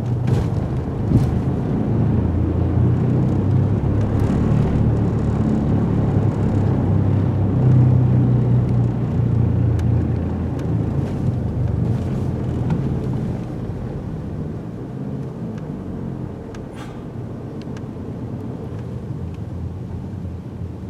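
Low, steady engine rumble with a deep hum, swelling in the first half and easing off in the second.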